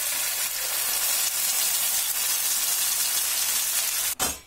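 Wet ground onion-tomato masala paste sizzling in hot oil in a wok as it is poured in: a loud, steady frying hiss that cuts off abruptly near the end.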